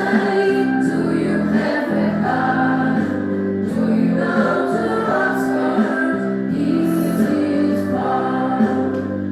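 A recorded children's song in English playing, with group singing over a steady backing accompaniment.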